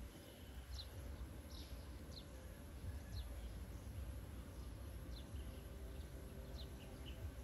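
Faint birds chirping: about eight short, high chirps, each falling in pitch, scattered over a low steady outdoor rumble.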